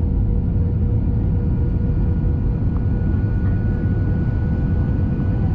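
Airliner landing: a steady low rumble with faint steady engine tones above it.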